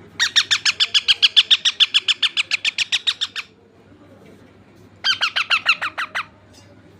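Parrot calling in two rapid runs of repeated shrill notes, about nine a second: a long run of about three seconds, then a shorter one of just over a second.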